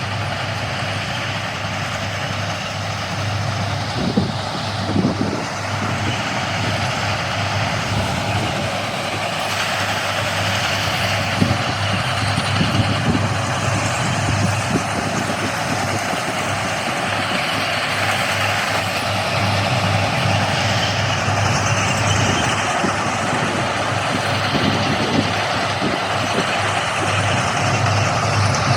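Heavy railway track-work machinery running steadily: an engine hum under a broad mechanical noise, with a few short knocks, the sharpest about four, five and eleven seconds in.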